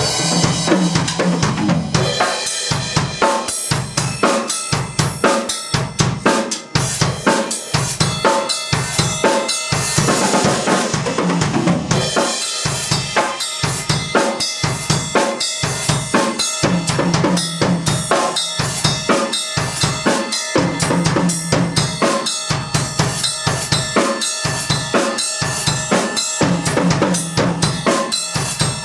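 Drum kit played in a steady groove of bass drum, snare and cymbals, with pitched instruments sounding along underneath; cymbal crashes near the start and about ten seconds in.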